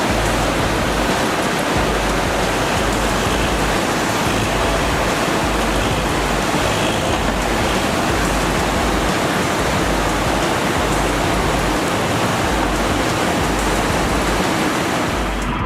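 Loud, steady rushing noise with no clear pitch, and uneven low rumbling pulses underneath.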